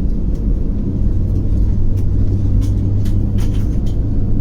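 Airbus A320 cabin rumble while the airliner taxis, with a steady low engine hum and a few light knocks and rattles about two to three and a half seconds in.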